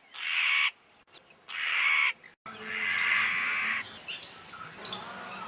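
A bird giving three loud, hoarse calls, the third the longest, followed by softer short chirps near the end.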